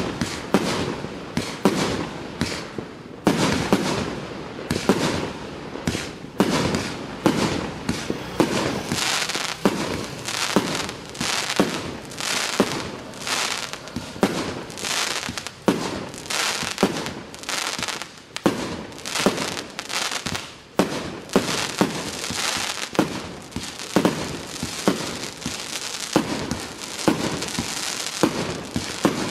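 A 111-shot fireworks cake firing a continuous sequence: sharp bangs about once a second, with the crackle of the bursting stars filling the gaps between them.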